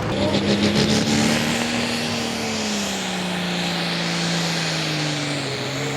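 Turbocharged International diesel pulling tractor's engine running on after a pull, its pitch slowly falling as the revs ease down.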